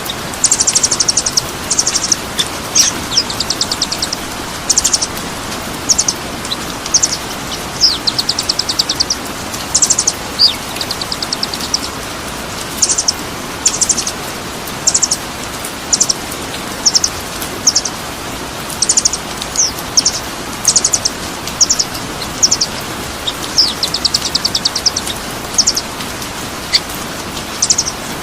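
Songbird chirps and short rapid trills, high-pitched and repeating about once or twice a second with brief gaps, over a steady rushing hiss. It is a masteran recording of songbird calls, used to tutor caged songbirds.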